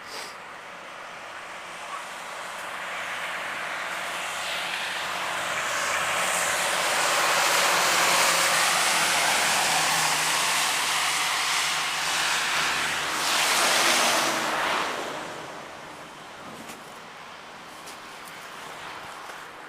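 A passing vehicle whose noise swells over several seconds, peaks, then fades away about fifteen seconds in.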